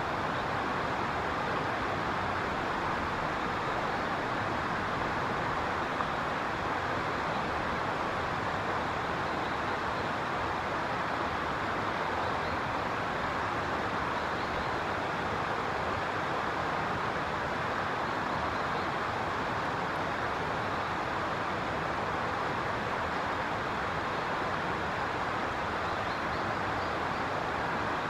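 Steady, even rushing noise with no distinct events, like flowing water or distant traffic.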